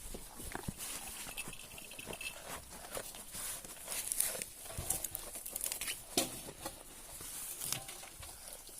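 Goats tearing and chewing fresh grass and leafy fodder held out by hand: irregular rustling, snapping and crunching of foliage.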